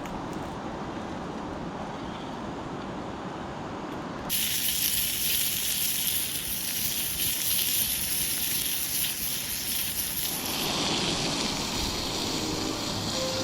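Steady rush of flowing water, then about four seconds in, after an abrupt change, a loud hiss of food sizzling in a small frying-pan dish over a campfire, which eases off near the end.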